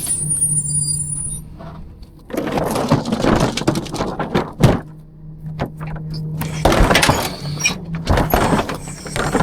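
Rear-loader garbage truck running with a steady low hum while dumpsters and trash bang and clatter in two long noisy stretches, with one sharp bang near the middle.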